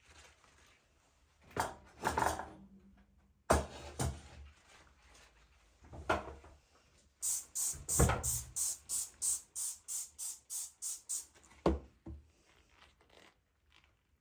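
Kitchen handling sounds: a few separate knocks and clatters, then a quick, even run of about a dozen strokes at three or four a second, and a last knock.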